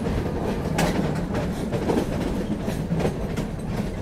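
Metre-gauge train running, with a steady rumble and the wheels clacking over rail joints a few times.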